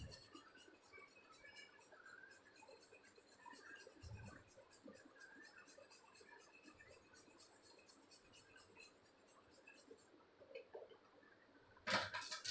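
White chocolate compound being grated by hand: faint, quick scratchy strokes against the grater. It stops about ten seconds in, and a louder knock follows near the end.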